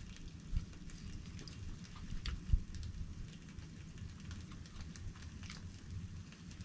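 Wind blowing and rumbling on the microphone, with scattered light ticks and crackles.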